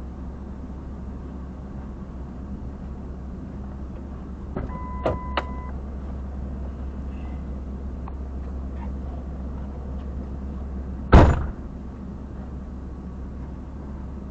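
Steady low hum of an idling vehicle, with two clicks and a short electronic beep about five seconds in, then a loud thump of a car door being shut about eleven seconds in.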